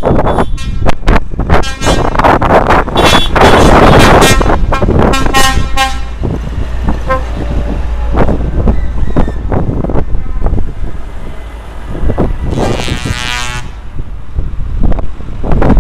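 Truck horns honking in a passing truck convoy: several short blasts in the first few seconds and a longer blast near the end, over a steady low rumble of engines and traffic.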